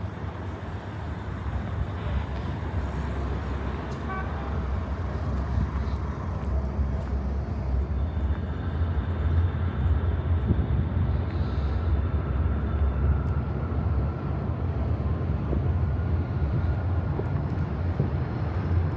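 Steady low rumble of city road traffic, growing slightly louder over the first half.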